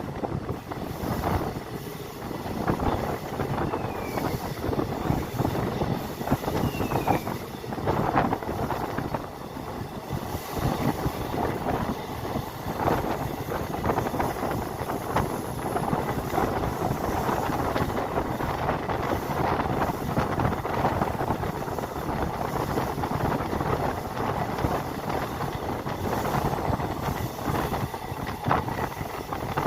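A moving passenger train heard from on board: a continuous rumble and rattle of the carriage, thick with clicks and knocks of wheels over the track, with a couple of faint brief squeaks early in the run.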